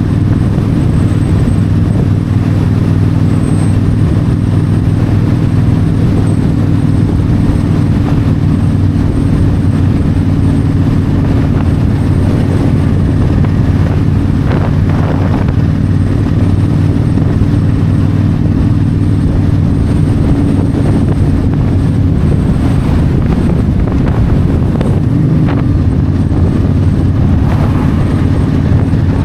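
Yamaha V-Star 1300's V-twin engine running steadily at highway cruising speed, its note holding a constant pitch, under a haze of road and wind noise.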